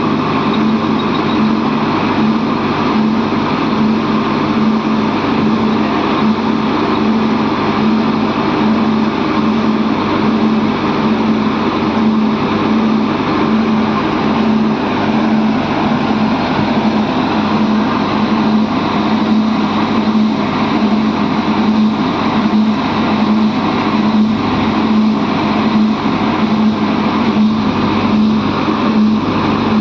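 Heavy diesel engine running steadily under load, with a strong steady hum.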